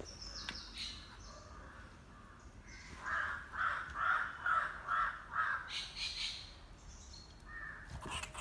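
A bird calling six times in a row, about two calls a second, starting a few seconds in, with fainter, higher bird chirps around it.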